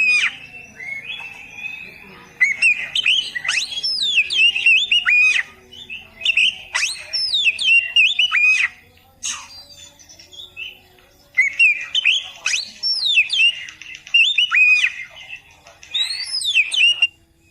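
Oriental magpie-robin (kacer) singing: loud, varied phrases of sweeping whistles and quick warbles, each a second or three long, with short pauses between.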